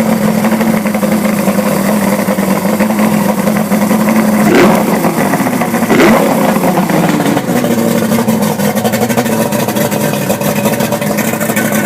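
Johnson two-stroke outboard motor idling steadily, blipped twice about four and a half and six seconds in, then settling back to idle. It has just had its reed-box gasket fixed, the cure for a lean sneeze.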